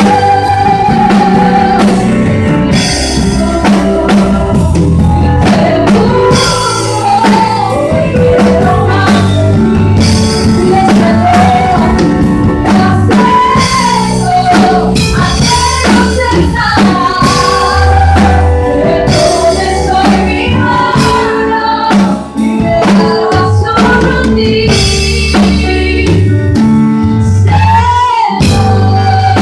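Live gospel worship song with a lead singer's voice over drum kit, bass and guitar.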